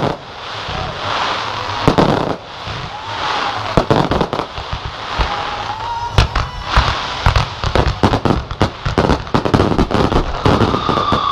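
Aerial fireworks display: shell bursts banging over a bed of crackling. The bangs come thick and fast in the second half, and a sustained high tone comes in near the end.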